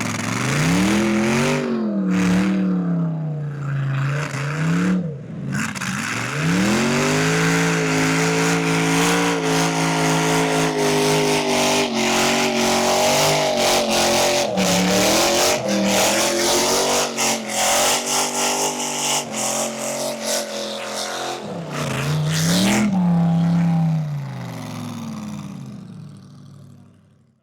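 Supercharged LS V8 in an R34 Skyline doing a burnout: a few short revs, then held high and fairly steady for about fifteen seconds with tyre squeal over it. Near the end it drops, revs once more and fades out.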